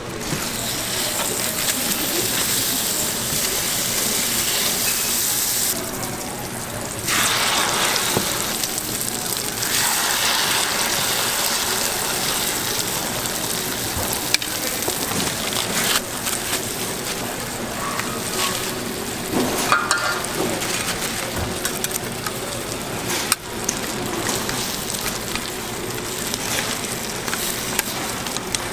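Food frying and sizzling steadily on a hot griddle for street-stall toast, with a few sharp clicks. The sizzle drops away briefly about six seconds in, then comes back.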